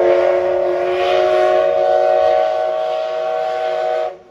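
Steam whistle of the Oigawa Railway's Thomas the Tank Engine steam locomotive, blown in one long blast of several tones at once that cuts off about four seconds in.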